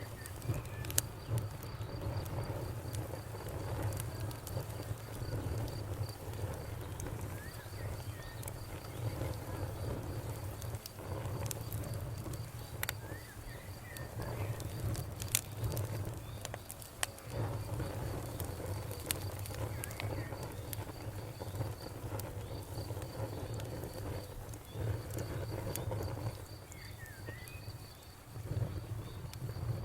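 Campfire burning, with sharp, irregular crackles and pops over a low rumble of the flames. Crickets chirp steadily and rhythmically in the background.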